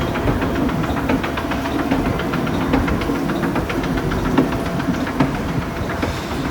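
Hitachi escalator running: a steady machine drone with fast, regular clicking from the moving steps.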